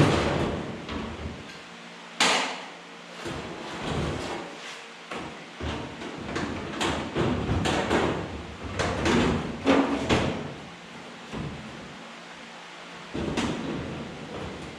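Irregular metal knocks and clanks from hands-on bodywork on a car, about a dozen of them scattered unevenly, the loudest near the start and about two seconds in.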